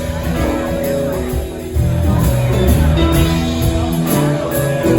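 Live rock band playing an instrumental jam: sustained guitar notes over bass and drums with cymbals.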